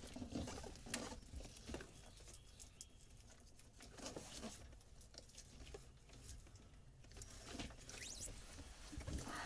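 Faint, irregular clicks, taps and rustles of hands handling old wiring and fittings, busier near the end.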